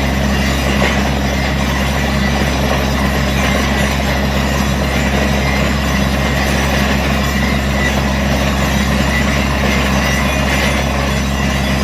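A large engine running steadily at constant speed, with a continuous mechanical rattle and clatter over it.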